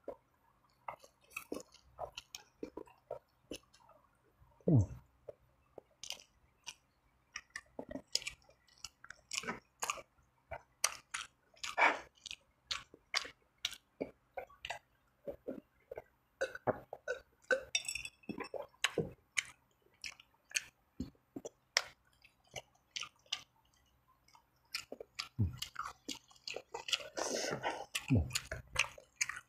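Close-miked wet chewing and lip smacking while eating spicy Samyang fried noodles and sauced fried chicken, as a steady run of short sharp smacks. A few short low burps fall in, one about five seconds in and two near the end.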